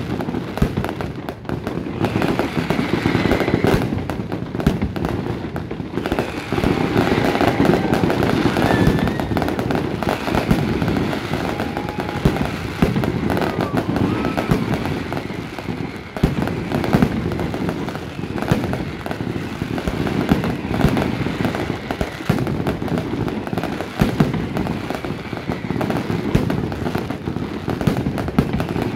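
Mascletà fireworks: a continuous barrage of firecracker bangs and aerial shell bursts, with dense rapid cracks that never pause.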